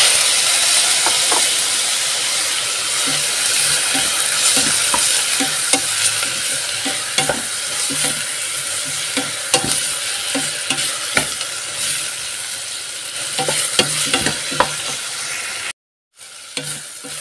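Chicken pieces sizzling in hot oil with onions in a stainless steel pot, loudest right at the start, while a wooden spoon stirs and clicks against the pot. The sound drops out completely for a moment near the end.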